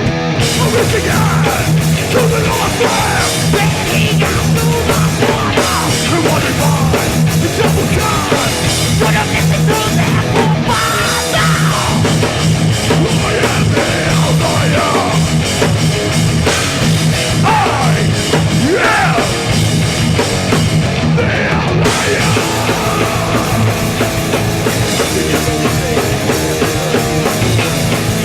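Hardcore punk band playing live: a pounding drum kit with heavy distorted electric guitars and bass. The full band crashes back in at the start after a brief stop, then plays steadily at full volume.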